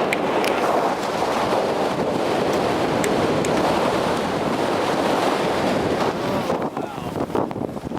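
Wind buffeting the microphone over the rush of water and waves along a sailboat's hull in an 18 to 20 knot breeze. It eases a little about six and a half seconds in.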